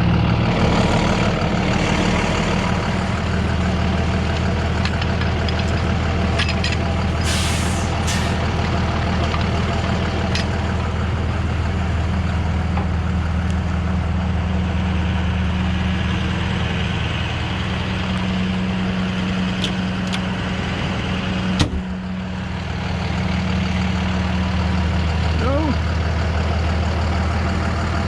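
Heavy truck engine running steadily during a winch recovery. Two short hisses come about seven seconds in, and there is a single sharp click a little after twenty seconds.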